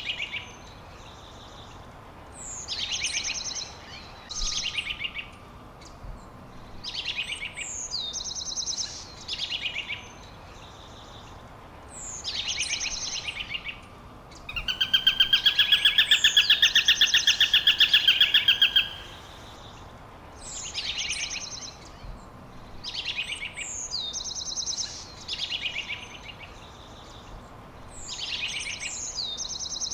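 Songbirds singing: short phrases every two or three seconds, each a high downward-sliding whistle followed by a quick trill. About halfway through comes a louder rapid trill lasting about four seconds.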